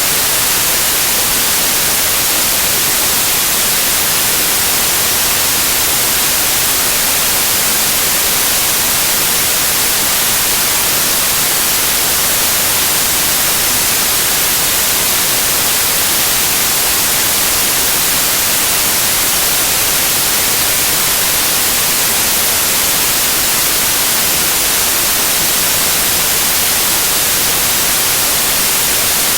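Loud, steady white noise: an even hiss, strongest in the treble, that does not change.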